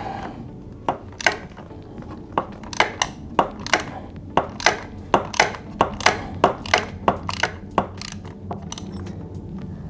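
Wrench clicking in short irregular strokes, a few sharp metallic clicks a second, while it turns the oil filter cap wrench to unscrew the motorcycle's oil filter.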